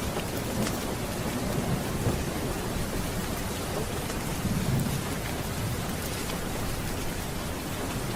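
Steady rain with low rolling thunder that swells briefly about halfway through.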